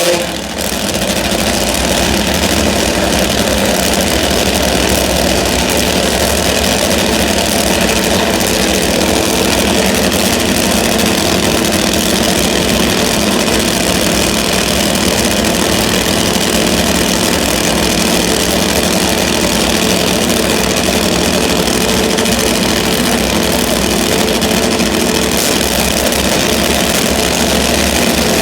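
Top fuel drag motorcycle's V-twin engine running steadily at idle, loud and even, with a brief dip about half a second in.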